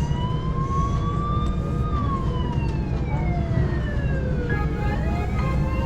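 Police car siren in a driving simulator wailing: it rises in pitch for about two seconds, falls slowly for nearly three, then starts rising again. A steady low engine and road rumble runs under it.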